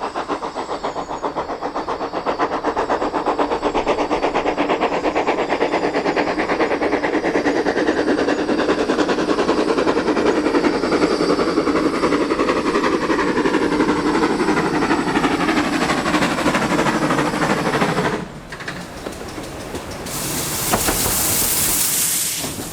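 Great Western steam tank locomotive running, its rapid even beats growing louder. About 18 seconds in the sound drops away, and near the end a loud hiss of steam comes in.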